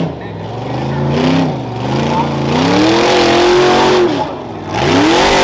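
Modified 2004 Ford Ranger rough truck's engine revving hard as it runs a dirt course, the revs climbing and dropping about four times as the driver gets on and off the throttle, with one long stretch held high near the middle.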